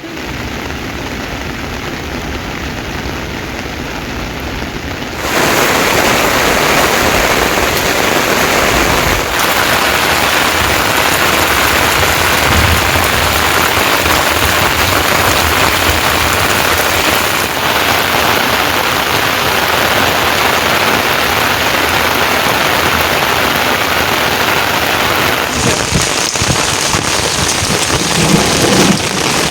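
Heavy rain falling, a dense steady hiss that grows louder about five seconds in.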